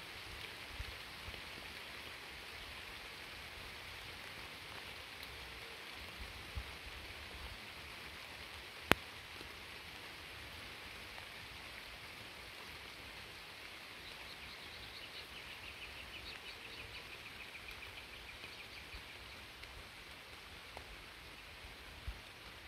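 Light rain falling steadily, an even hiss of drops. A single sharp click sounds about nine seconds in, and a faint, rapid chirping comes and goes a little past the middle.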